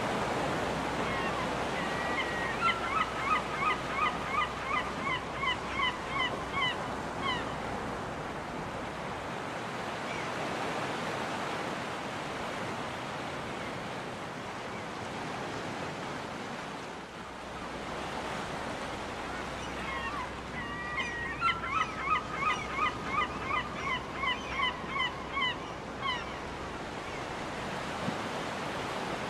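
Surf washing steadily onto a beach, with a gull's long call heard twice: a drawn-out opening note and then a run of short, falling yelps, about two a second, that tail off after five seconds or so.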